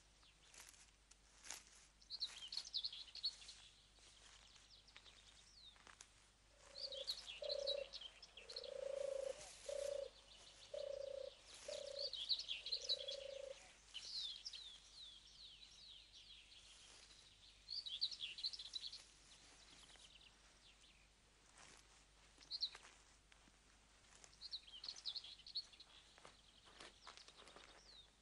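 Songbirds singing faintly in short, high twittering phrases every few seconds. From about six seconds in, a run of low, short, steady notes repeats for several seconds.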